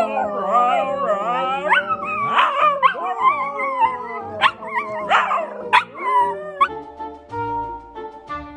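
A dog howling and whining in long wavering cries, with a couple of sharp rising yelps, for about six and a half seconds; then background music with steady held notes takes over.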